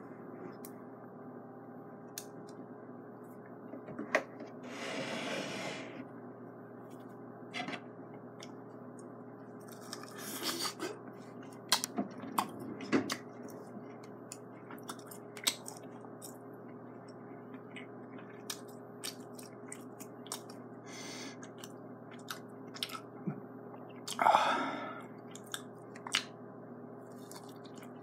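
A person biting and chewing a chunk of steak close to the microphone: scattered wet clicks and smacks over a steady low hum, with a few longer noisy rushes, the loudest about 24 seconds in.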